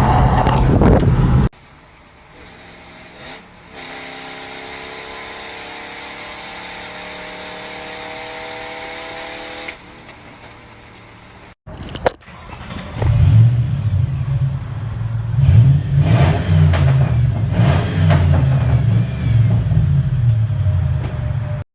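Exhaust of a 1997 Ford F-150's 4.6L Triton V8 with short equal-length headers, heard in several short clips: loud running that cuts off about a second and a half in, then a quieter, steady drone that slowly rises in pitch, then, after a click, loud uneven running with revs rising and falling from about thirteen seconds on.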